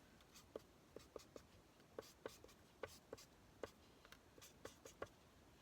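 Alcohol marker tip dabbing and stroking on parchment paper: faint, irregular light taps, two or three a second.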